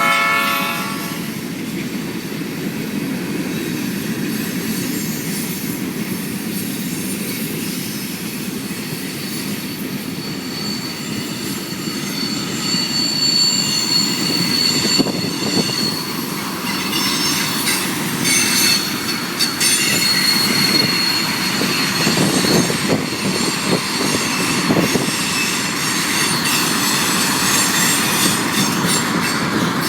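Freight train rolling past, its horn's last note cutting off in the first second. Steady rumble of the cars, with wheel clicks and a high, thin wheel squeal from about twelve seconds in.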